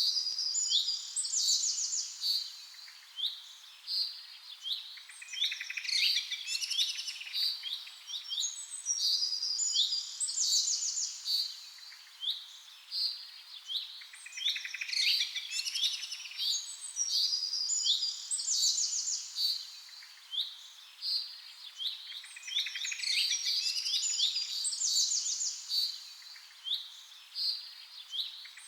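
Many small birds chirping and twittering together in a dense, busy chorus of high calls and trills. The pattern of calls repeats about every eight seconds.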